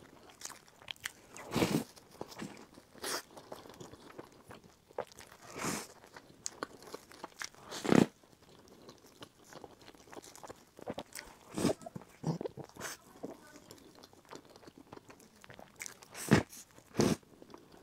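Close-miked eating of a black-crusted pastry with a dark filling: crunchy bites and chewing at uneven intervals, with the loudest bite about halfway through.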